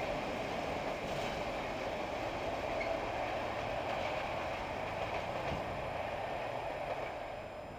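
A passenger train hauled by a class 751 diesel locomotive rolling along the rails as a steady rumble that fades away near the end.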